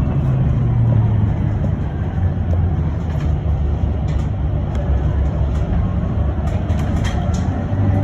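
Inside a moving electric bus: a steady low rumble of tyres and road noise with no engine note, and a few light rattles near the end.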